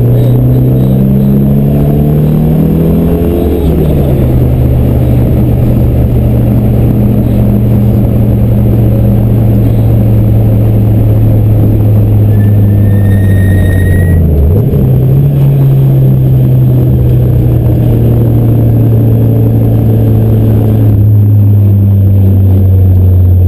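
Race car engine heard from inside the cabin while driving on the track. The engine note climbs, then drops sharply about four seconds in. It holds steady, then dips briefly and climbs again a little past the middle.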